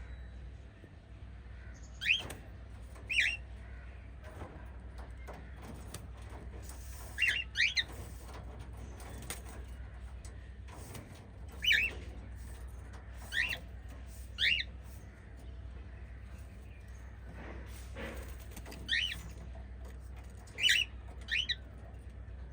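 Pet cockatiels chirping: short, separate chirps every few seconds, some in quick pairs, over a low steady hum.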